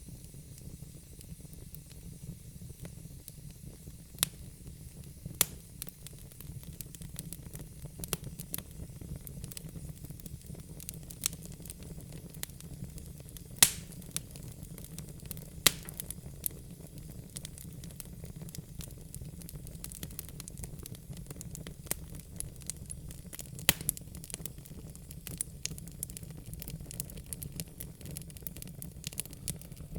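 Wood fire burning in a fireplace: a steady low rumble and hiss, with frequent sharp crackles and pops from the logs, a few standing out louder.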